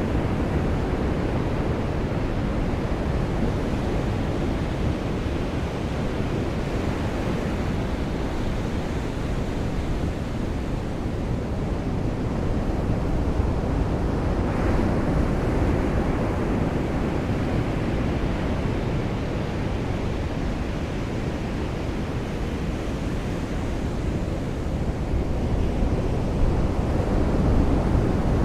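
Ocean surf washing onto a beach, mixed with falling rain: a steady rushing that swells louder about halfway through and again near the end.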